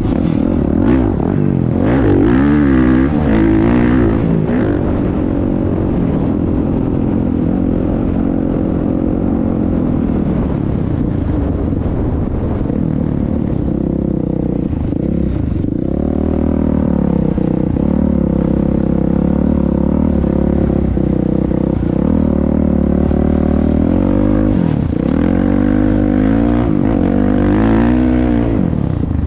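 Motocross dirt bike engine running hard, its pitch rising and falling again and again as the throttle is worked.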